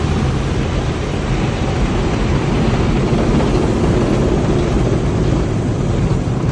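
Automatic car wash running over the car: a steady, loud rushing and rumbling, heard from inside the car.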